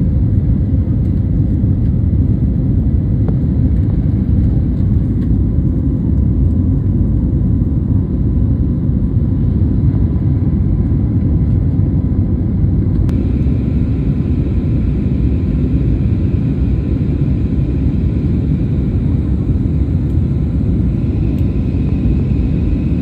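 Airliner taking off, heard as a steady low rumble of engines and airflow that holds an even level throughout.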